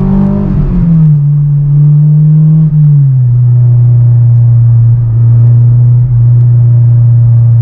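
Car engine running under way, heard from inside the cabin as a loud steady drone. Its pitch drops twice, shortly after the start and about three seconds in, then holds steady.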